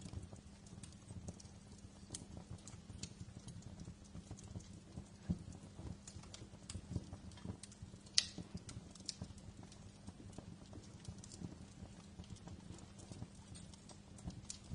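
Wood fire crackling in a fireplace: irregular sharp pops and snaps, one sharper pop about 8 seconds in, over a low steady rumble.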